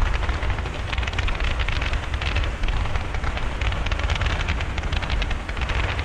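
Fireworks crackling in a dense, continuous patter of small pops, over a steady low rumble.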